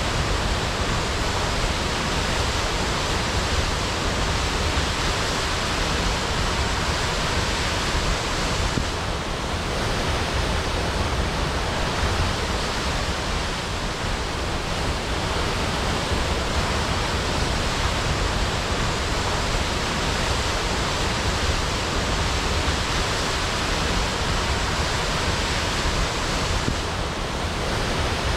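Waterfall crashing: a steady, dense rush of falling water with a strong low rumble.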